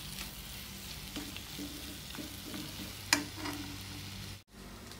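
Onion-and-tomato masala frying in a pan while a metal spoon stirs and scrapes through it, with a soft steady sizzle. There is one sharp clack of the spoon against the pan about three seconds in, and the sound breaks off for an instant near the end.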